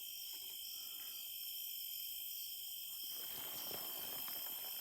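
Steady chorus of insects such as crickets, several high, continuous shrill tones layered together.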